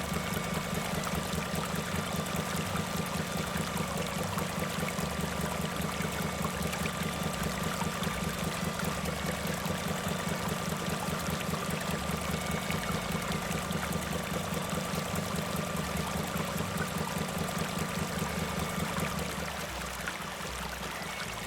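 A small motor running steadily with a fast, even pulse and a faint whine, easing off near the end.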